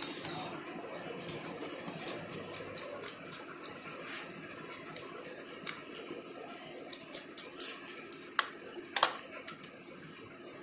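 Irregular light clicks and taps of small repair tools on a mobile phone being taken apart, with two sharper clicks near the end.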